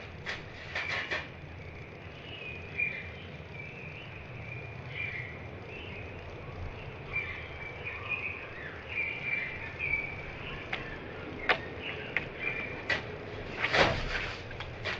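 Birdsong slowed to half speed, a run of short chirps that sounds surreal, with scattered sharp taps on a tin roof. The loudest taps come in a cluster near the end.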